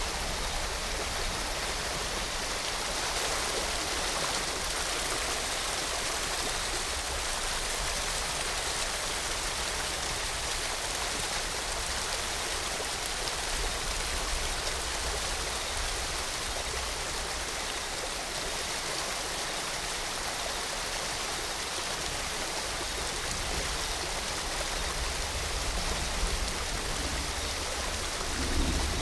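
Steady rushing of falling water, rain mixed with a waterfall, with a low rumble swelling near the end.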